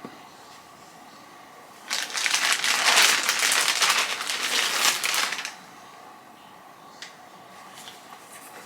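Packaging crinkling and rustling for about three and a half seconds as a package is handled and opened, followed by a few small clicks.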